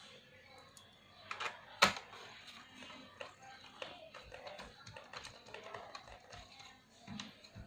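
Small plastic and metal clicks and taps of laptop parts being handled and fitted together during reassembly, with one sharp click about two seconds in.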